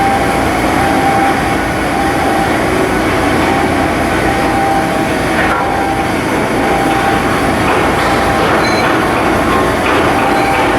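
Steady, loud industrial machinery noise from shipyard work, with a faint whine coming and going.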